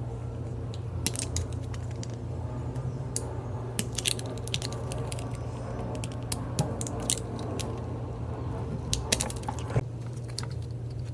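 Scattered small clicks, snips and crackles of hands working on an electrical plug and its cable, over a steady low hum.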